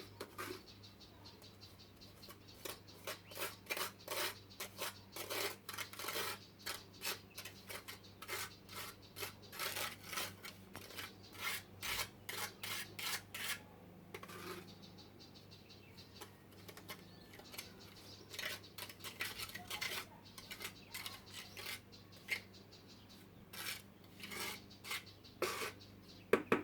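Trowel scraping and patting thin sand-and-cement screed repair mortar into a primed patch, in a run of short strokes about two or three a second, with a brief pause about halfway through.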